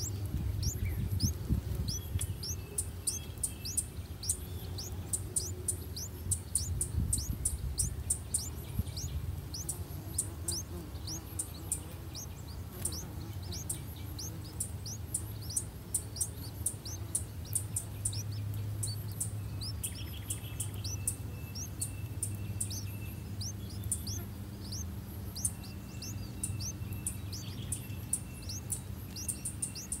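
Small birds chirping: a quick, unbroken run of very high, thin peeps, mixed with slurred falling notes a little lower in pitch, over a low rumble.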